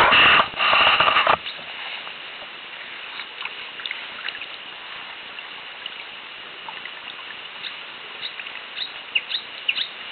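A small sparrow-like songbird in reeds, which the recordist takes for a reed warbler, singing in short, scattered high chirps and whistles that grow busier toward the end. A loud rushing noise fills the first second or so.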